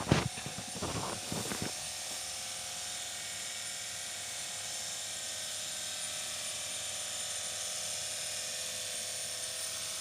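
LARLEX 48V cordless pressure washer gun's pump motor running with a steady whine, after a few knocks in the first couple of seconds.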